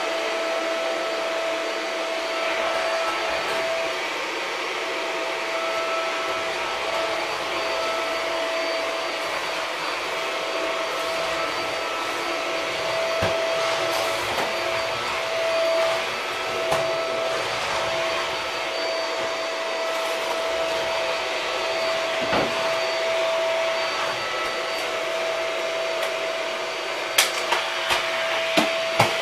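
Shark vacuum cleaner running steadily, a constant motor whine over a hiss of airflow. Several sharp knocks sound near the end.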